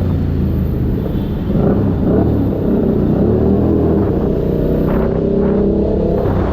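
Keeway SCR 250's 250cc V-twin engine running through a Racefit free-flow exhaust, its pitch rising and falling several times as it is revved.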